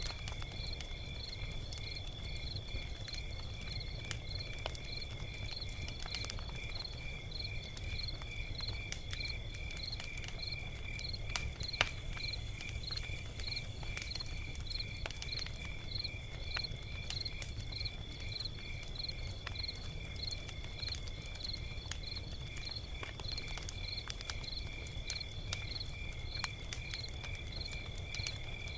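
Log fire crackling with scattered sharp pops over a low rumble, one louder pop about twelve seconds in. Crickets chirp throughout: a steady high trill with a rhythmic chirp about one and a half times a second.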